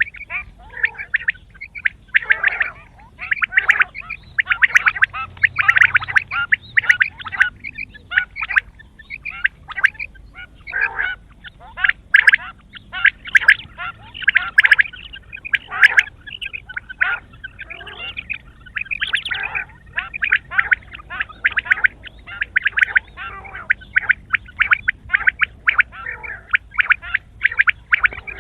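Quail calling in a fast, unbroken stream of short, sharp notes.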